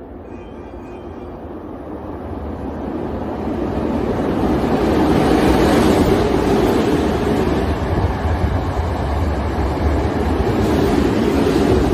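Hankyu 6000 series electric train passing non-stop through a station at express speed. The rumble grows as the train approaches and is loudest from about five seconds in, as the carriages run by.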